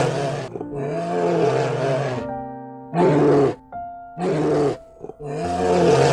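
A bear roaring again and again: five rough roars, some about half a second and others over a second long, with short gaps between them. Background music with steady held notes plays under and between the roars.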